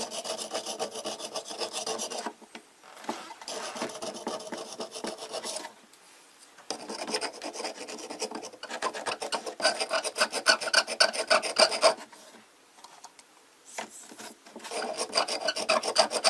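Rapid back-and-forth scrubbing and scraping at hard mineral scale caked on a hot air humidifier's heating element, in four bouts with short pauses between them.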